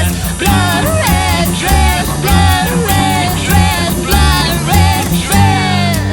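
Full-band rock song: a steady drum beat and bass under a bending lead melody, which drops out about five seconds in.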